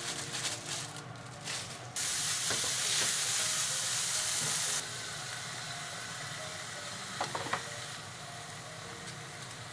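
Ground meat and chopped green onion sizzling in a hot non-stick frying pan as they are stirred with a spatula. The sizzle comes in patches at first, swells suddenly about two seconds in and stays loud for nearly three seconds, then settles to a steady, quieter sizzle with a few light clicks near the end.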